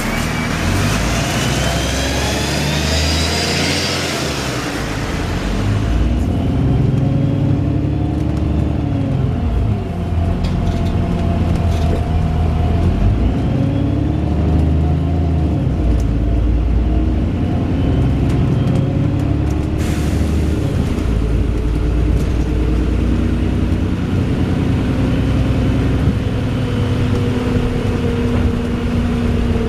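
Wright Pulsar Gemini 2 double-decker bus heard from on board: the engine and gearbox run steadily, the pitch rising and dropping several times as the bus accelerates through its gears, then holding steadier near the end. A high rising whine sounds in the first few seconds.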